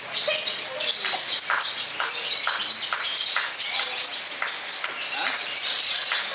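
Several lovebirds singing at once. Their long, continuous shrill chattering (ngekek) runs throughout, with many quick, sharp chirps over it.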